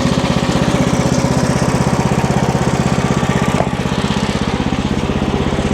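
Wood-Mizer LX50 Super sawmill's small gasoline engine running steadily, with a rapid, even firing pulse.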